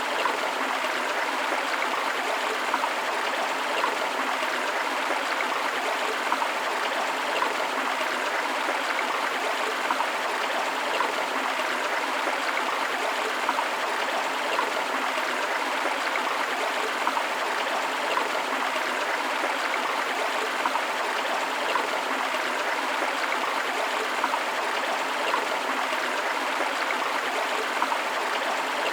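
River water flowing, a steady rushing with a fine trickling texture and no deep rumble.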